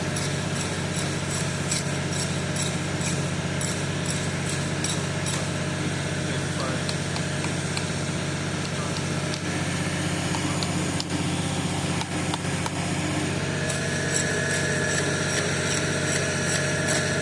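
An engine running steadily at constant speed, with a few light clicks and knocks over it.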